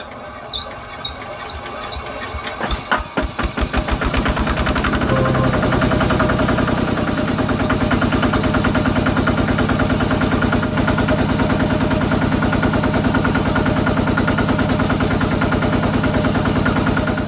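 Small engine of a homemade mini tractor starting: irregular pops in the first few seconds quicken into a rapid, even chatter, and from about four seconds in it runs steadily.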